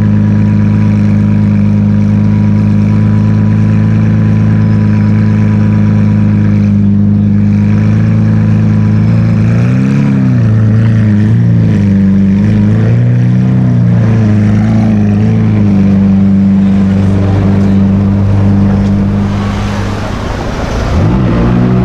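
A sports car engine idling steadily, then blipped through a series of short revs that rise and fall back to idle, with one more rev near the end.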